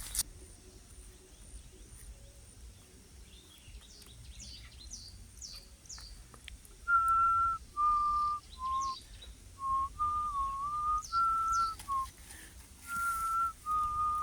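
A person whistling a slow tune in clear held notes that step up and down between a few pitches, starting about halfway through. Faint high bird chirps come before it.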